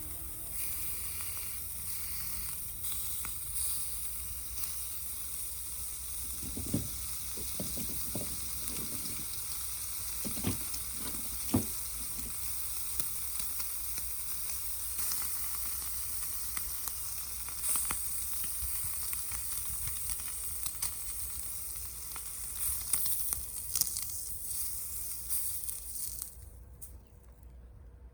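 Food sizzling in a frying pan over a wood gas stove: a steady high hiss with scattered crackles and a few soft knocks around the middle. The sizzling cuts off suddenly near the end.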